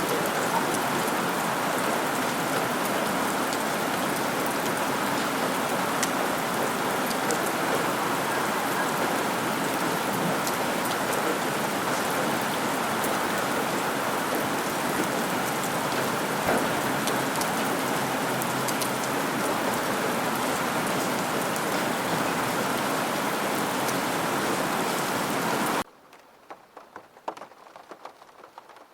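Steady, heavy rain falling, with the patter of individual drops. About three seconds before the end the rain cuts off suddenly, leaving only faint scattered drips.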